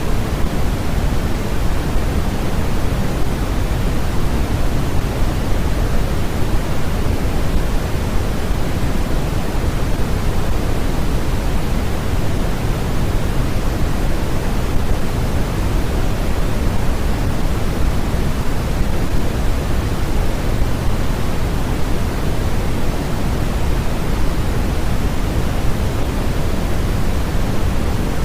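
Steady synthetic noise from a white-noise sleep track: an even, unchanging hiss, heavier in the low end than in the highs.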